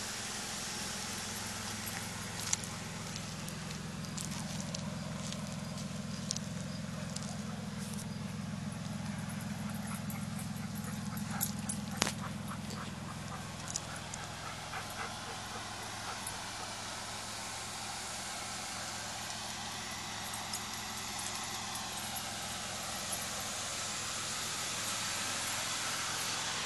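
A 2004 Pontiac Grand Prix GT's 3.8-litre V6 idling steadily, a low even exhaust hum, heavier in the first half.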